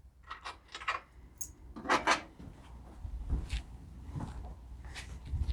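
Small metal hardware (washers and lock nuts) clicking and clinking as it is handled, a few separate clicks with one louder about two seconds in, and a low rumble from about three seconds on.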